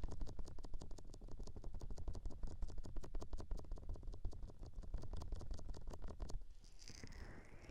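Fast, irregular tapping and scratching of fingertips right against a binaural microphone, as in a close-up ASMR head massage. About six seconds in it stops abruptly, and a softer sweeping brush passes over the microphone.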